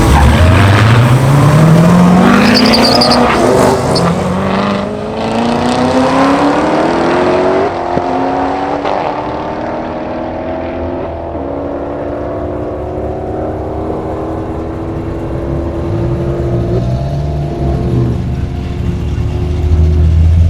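Two supercharged V8 race cars, a Hellcat-engined Mustang and a Corvette Z06, at full throttle from a rolling start. The engine pitch climbs steeply, then drops and climbs again at a few upshifts, and the sound fades and dulls as the cars pull away.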